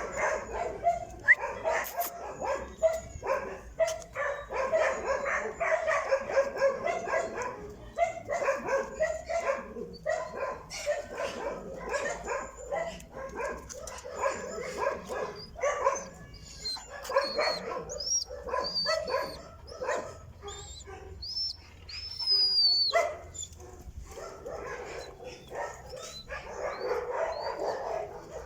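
Stray street dogs barking and yelping over and over, the barks coming close together, with high thin whines mixed in during the second half.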